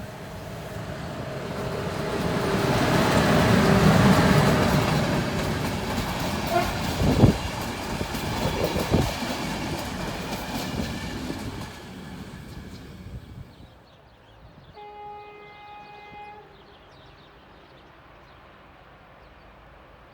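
Electric train passing, growing to its loudest about four seconds in, then fading away, with two sharp knocks along the way. After it has faded, a train horn sounds once, briefly, for about a second and a half.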